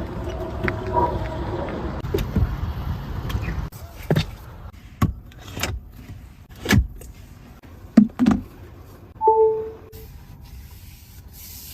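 Car door and interior mechanism sounds: a steady mechanical hum for the first few seconds, then several separate thumps and clicks, and a short two-note chime falling in pitch about nine seconds in.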